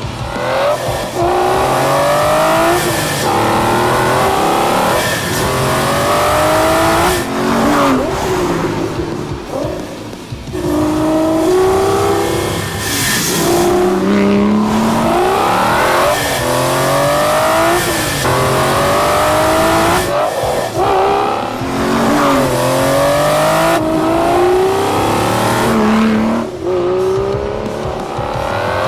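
Aston Martin Vanquish's V12 engine accelerating hard through the gears. The pitch climbs, then drops at each upshift, again and again every second or two.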